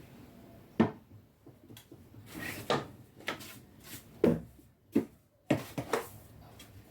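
A series of irregular sharp knocks and clunks, like household objects being handled and set down, with short quiet gaps between them.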